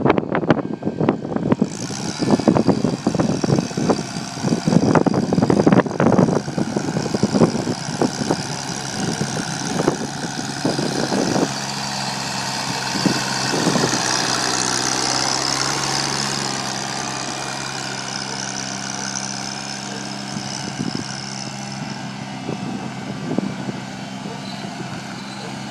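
Tractor engine running, with irregular thumps over it for roughly the first half, then settling into an even, steady hum.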